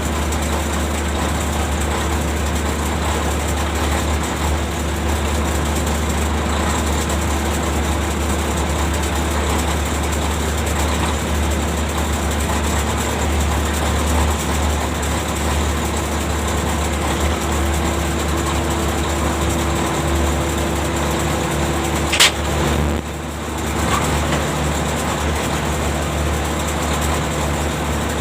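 Ship's deck machinery running steadily with a deep hum and a held tone. About 22 seconds in there is a sharp click, after which the tone settles lower, as the machinery's load or setting changes.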